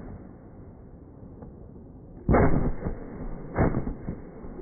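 Aerial firework shells bursting: a loud boom about two seconds in and a second about three and a half seconds in, each dying away over a fraction of a second. A third boom begins at the very end.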